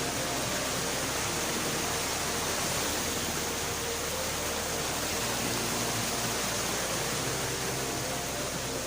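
Water of a small waterfall rushing down over rock, a steady, even hiss of falling water with no breaks.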